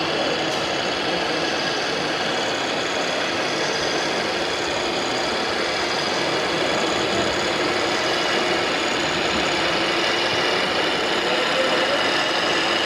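Radio-controlled model trucks running with an even, engine-like sound.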